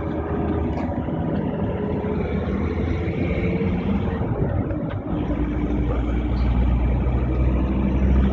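Motor vehicle engine and road noise, steady, growing into a heavier low rumble about five seconds in.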